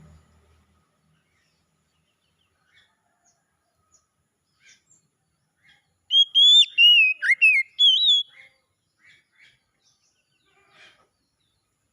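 Oriental magpie-robin singing: one loud whistled phrase of rising and falling notes, about two seconds long, about six seconds in. Faint scattered chirps come before and after it.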